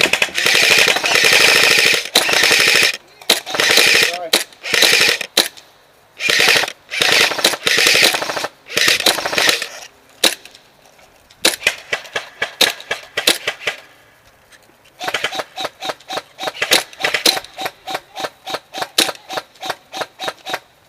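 Airsoft electric guns firing: long full-auto bursts over the first half, then rapid single shots, several a second, through the second half.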